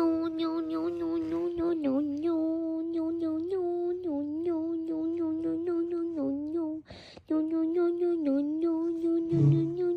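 A voice droning on one held note in a monotone hum, wavering slightly in pitch, broken once by a short gap about seven seconds in.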